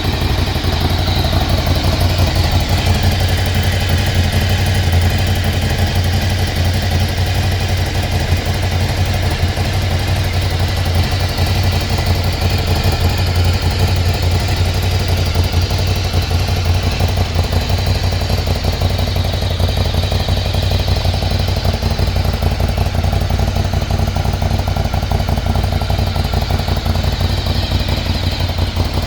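Ducati Scrambler 800's air-cooled L-twin engine idling steadily.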